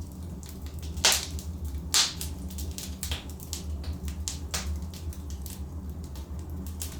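Wood fire of burning logs crackling: irregular sharp pops and snaps, the loudest about one and two seconds in, over a steady low rumble.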